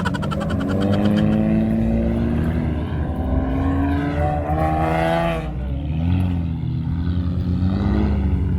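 Muscle car engine accelerating hard, its note rising for about five seconds, then falling sharply as the driver shifts up or lifts off, and pulling again.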